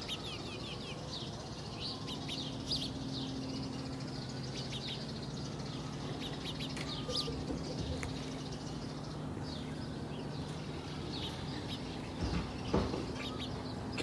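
Small birds chirping over and over in quick, short falling calls, over a steady low hum that comes in about two seconds in. A couple of brief knocks sound near the end.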